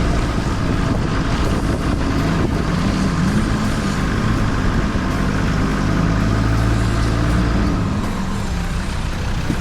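A 4x4's engine running steadily under load, with a broad rushing wash over it, as the vehicle drives through a deep water crossing.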